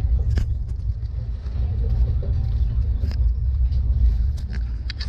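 Steady low rumble of a moving LHB passenger coach heard from inside, with a few sharp clicks.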